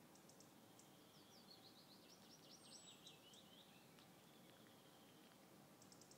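Near silence with a faint steady hiss. About a second in, a small songbird sings a quick run of repeated chirping notes lasting about two seconds. A few faint clicks come near the start.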